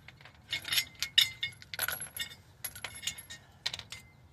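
Small metal tools or parts being handled, with a series of sharp clinks and jangles, some with a brief metallic ring.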